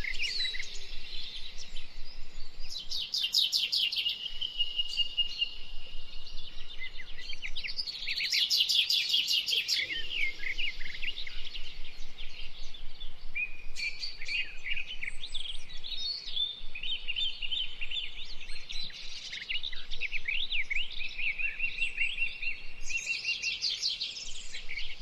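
Red-winged blackbirds singing and calling: overlapping chirps and whistles, broken by buzzy trilled song endings about three, eight and twenty-four seconds in.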